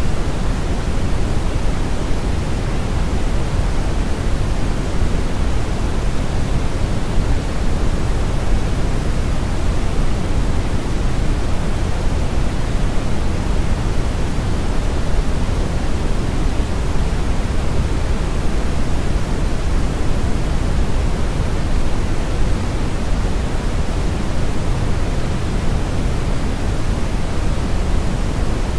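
Synthetic brown noise: a steady, even rushing hiss, strongest in the deep bass and falling off toward the highs, with no change or events.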